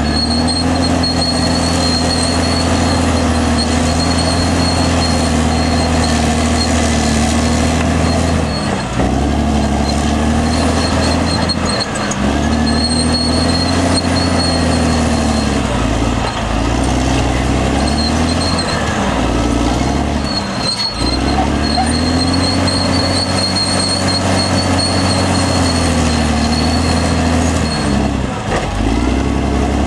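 Caterpillar D6R XL bulldozer's diesel engine running hard under load, its pitch dipping and recovering several times as it lugs, with a thin high whine coming and going above it.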